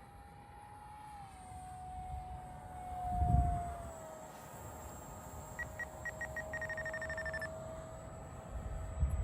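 An RC jet's 50mm electric ducted fan whines in flight: one steady high tone that slowly sinks in pitch. Wind buffets the microphone about three seconds in and again near the end. A run of short electronic beeps, quickening, sounds in the middle.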